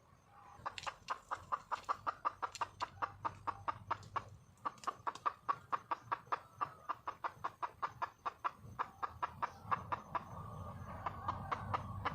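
Wild red junglefowl hen clucking in a fast series of short, sharp notes, about six a second, with a brief break about four seconds in: a hen's call for a mate.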